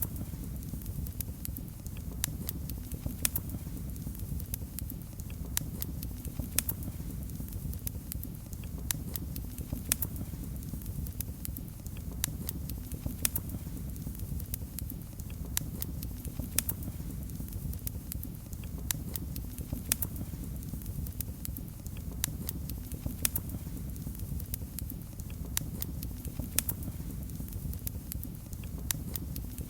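Wood fire in a fireplace crackling and popping with irregular sharp snaps over a steady low rumble of the burning.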